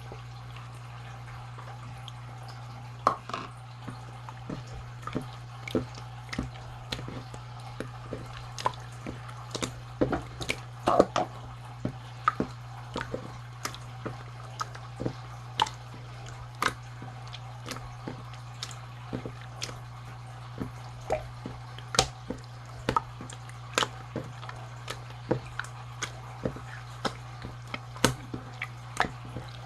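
Slime being played with by hand, making irregular sharp wet pops and clicks, roughly one or two a second, starting about three seconds in. A low steady hum runs underneath.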